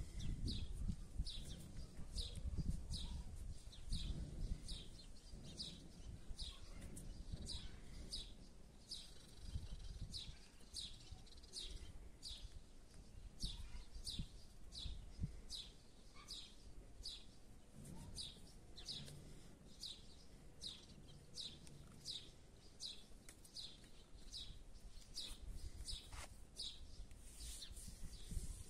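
A small bird calling, the same short high chirp repeated evenly about one and a half times a second, over a low uneven rumble.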